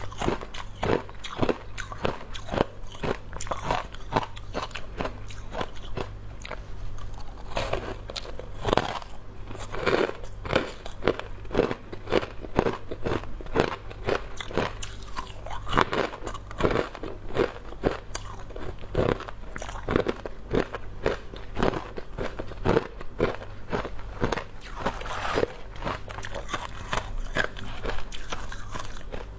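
Hard ice being bitten and chewed close to the microphone: rapid, irregular crunching and cracking, several crunches a second with louder bites now and then.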